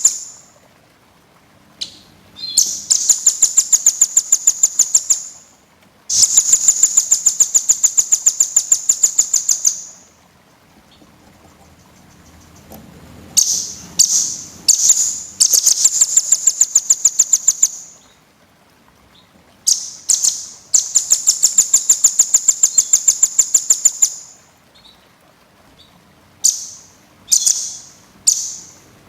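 Small songbird (burcil) singing in bouts of rapid, high chirps repeated evenly, about five or six a second. Each bout lasts two to four seconds and is followed by a short pause.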